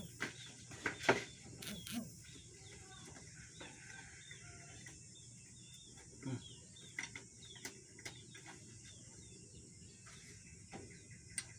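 Scattered sharp metallic clinks and knocks from hand tools working on a diesel engine during disassembly, loudest about a second in. Birds chirp with quick repeated notes throughout.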